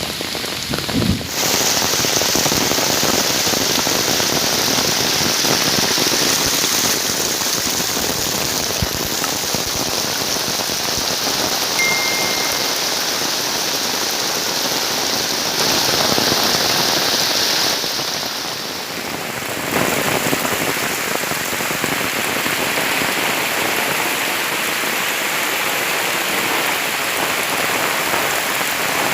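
Heavy rain pouring down in a dense, steady hiss, easing briefly about two-thirds of the way through before coming back.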